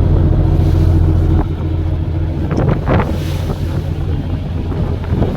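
A fishing boat's engine running steadily with a low hum, with wind buffeting the microphone. A short burst of noise comes about three seconds in.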